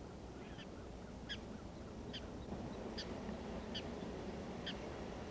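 Prairie dog giving its repeated bark-like calls: short high chirps, about one a second, six in a row.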